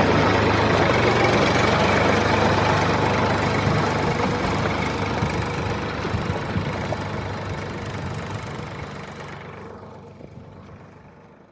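Steady engine-like running noise, fading out gradually through the second half until it is gone at the end.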